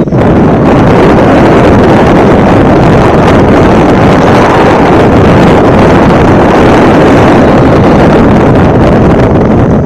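Strong wind buffeting the microphone: a loud, steady rumbling roar with no break.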